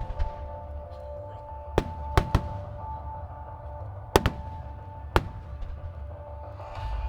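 Aerial fireworks shells bursting in sharp bangs, about six of them, with a quick pair around two seconds in, over a steady low rumble. Music with held tones plays underneath.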